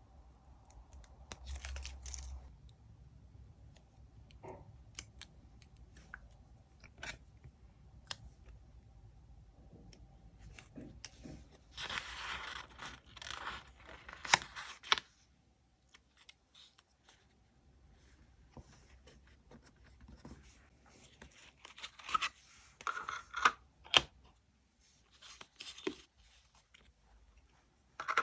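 Paper-crafting sounds on a desk: scattered light taps and clicks, with a few seconds of tearing and rustling of paper about halfway through and more rustling later on.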